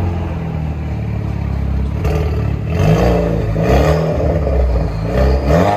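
2021 Chevy Camaro 2.0-litre turbo four-cylinder running through a muffler-delete exhaust with a Dynomax race bullet, idling and then revved in a few quick blips in the second half, with a deep tone.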